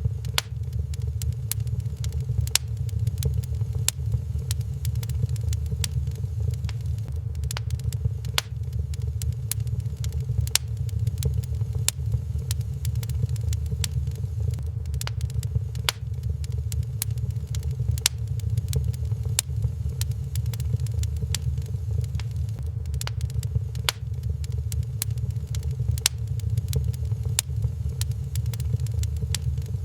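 Wood fire crackling in a fireplace: irregular sharp pops and snaps, a few to several a second, over a steady low rumble.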